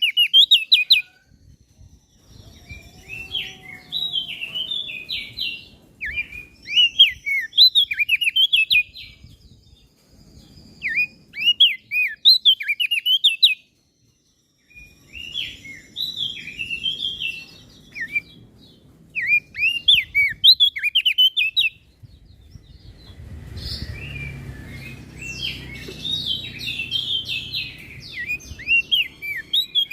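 Opior jambul (crested dark-eye) singing in repeated bursts of quick, high chirping notes with short pauses between them. The song breaks off briefly about halfway through. It grows denser near the end over a low rumble.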